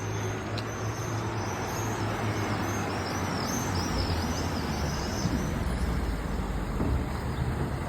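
Swallows calling as they fly about, a rapid run of high chirps through the first two-thirds or so. Under them runs a steady low rumble of street traffic.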